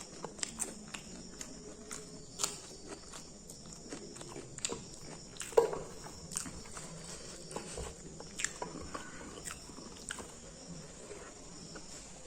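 A person chewing and biting crunchy food such as raw chilli, onion, cucumber and fried singara, in irregular crisp crunches and clicks, the loudest about five and a half seconds in.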